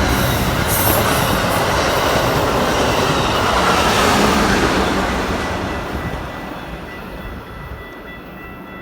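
A passenger train passing at speed, its wheels rumbling and clattering loudly on the rails, then fading away after about five seconds as a few steady high ringing tones linger.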